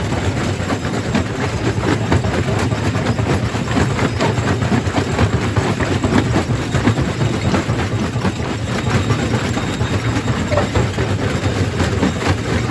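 Quarry primary rock crusher running: a steady, heavy machine drone with a dense, continuous clatter of rock knocking and grinding through it.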